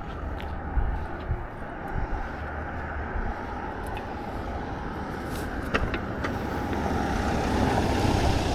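Outdoor street ambience recorded while walking: scattered footstep clicks over a steady low rumble that grows louder toward the end.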